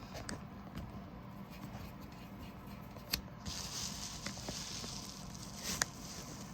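Small metal clicks and handling noises as the parts of a diesel injector-cup puller (bearing, washer and nut) are fitted together by hand, with a sharp click about three seconds in, a soft hiss for a couple of seconds after it, and another click near the end.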